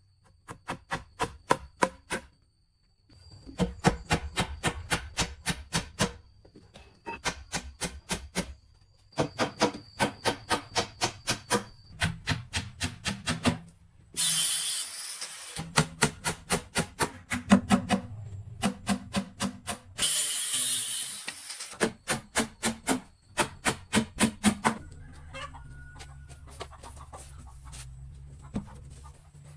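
Rapid, evenly spaced knocking strokes, about five or six a second, in runs of a few seconds broken by short pauses. They are interrupted twice by a couple of seconds of hiss.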